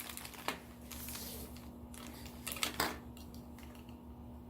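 Small plastic vacuum accessories being handled and unbagged: a soft rustle, then a few sharp light clicks, one about half a second in and a couple more near the three-second mark, over a faint steady hum.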